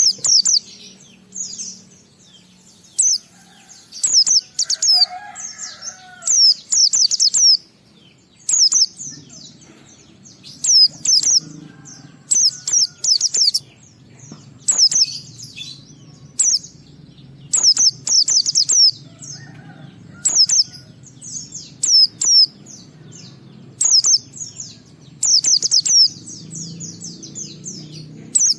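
White-eye (pleci) singing in full voice: short bursts of rapid, very high, falling chirps, repeated about once a second in a long unbroken run.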